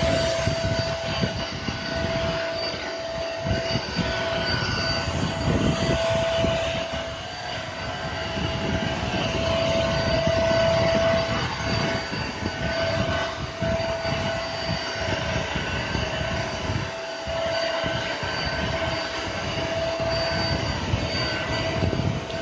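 Electric mop-and-vacuum floor cleaner running, its motor giving a steady whine over the noise of the spinning roller on the floor.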